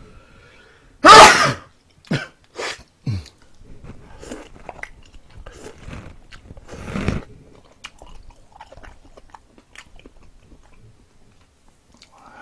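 Close-miked eating: biting into and chewing crispy fried chicken. A loud sudden crunch comes about a second in, then three sharp crunches and steady wet chewing, with another louder bite near the middle.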